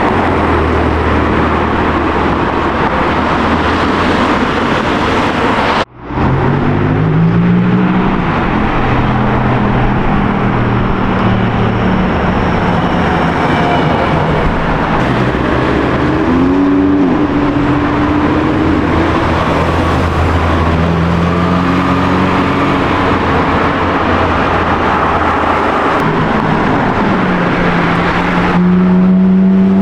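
Sports car engines running and revving on a street, the engine note rising and falling in pitch; the sound cuts abruptly about six seconds in, where one clip ends and another begins.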